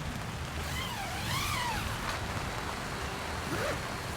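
Steady rush of rain and wind with a low rumble underneath. A short wavering call rises and falls about a second in.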